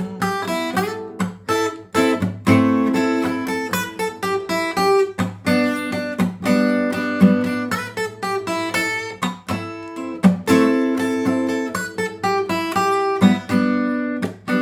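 Acoustic guitar music: a steady run of plucked notes and light strums.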